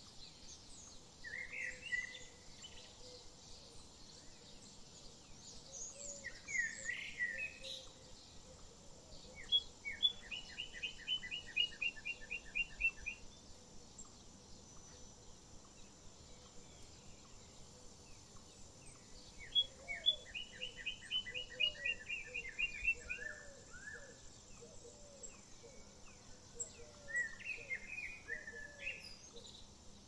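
Birds singing over a faint steady hiss: short chirping phrases, and twice a trill of about a dozen even notes lasting about three seconds. Softer low calls join in the second half.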